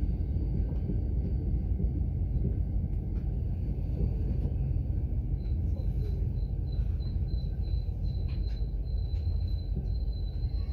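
Steady low rumble of a Mugunghwa-ho passenger train heard from inside the carriage as it rolls slowly along a station platform. About halfway in, a faint high-pitched pulsing whine comes in and settles into a thin steady tone.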